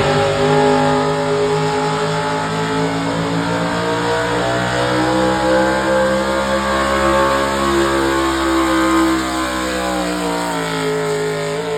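1992 Chevrolet 3500 pickup's engine at full throttle under the load of a pull sled, held at high revs with the pitch slowly climbing, then wavering near the end.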